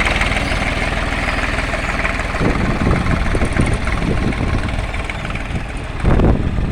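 Tractor engine running at a steady idle, then the sound turns uneven with irregular thumps about two and a half seconds in, and a louder burst near the end.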